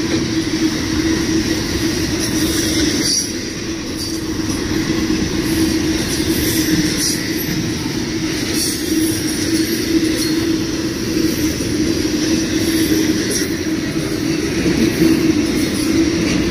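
Intermodal freight train's loaded container and trailer well cars rolling past at speed: a steady rumble of steel wheels on rail with a constant tone held throughout.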